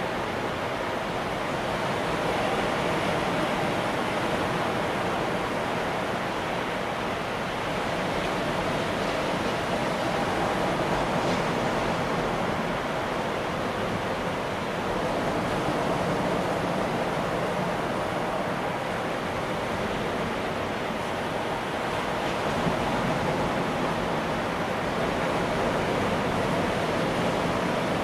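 Ocean surf breaking and washing along the beach in a steady, continuous rush, swelling gently every few seconds.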